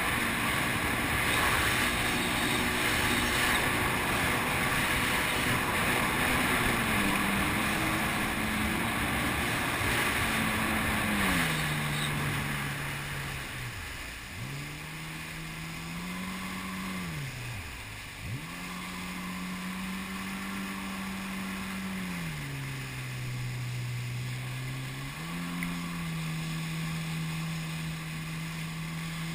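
Jet ski engine running at speed under a loud rush of noise, then easing off about twelve seconds in. Its pitch then dips and rises several times with the throttle before running steadier at a lower pitch.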